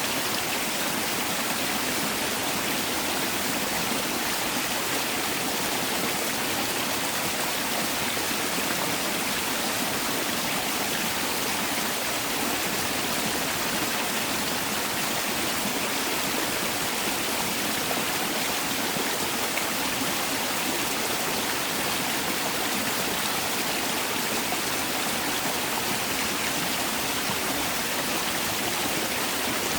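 Mountain valley stream rushing over rocks, a steady, even sound of running water.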